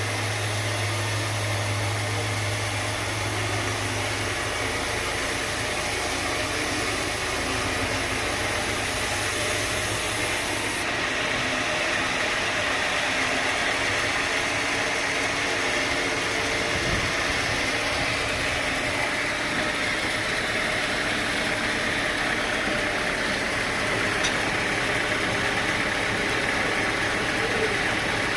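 Sawmill machinery running steadily, an engine-like drone with a constant noisy hiss and whine over it; a low hum drops out about four seconds in.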